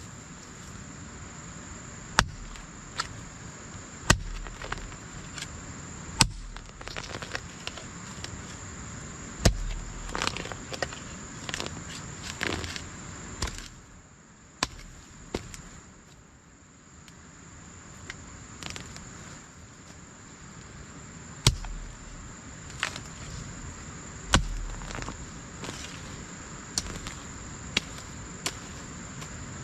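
Irregular sharp knocks and heavy thuds of hand-tool work, spaced a second to several seconds apart, over a steady high-pitched insect drone.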